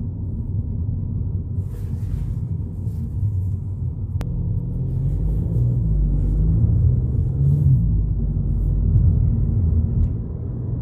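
Low, steady road and engine rumble from a 2022 VW Polo GTI while driving, growing a little louder after about five seconds, with a single faint click about four seconds in.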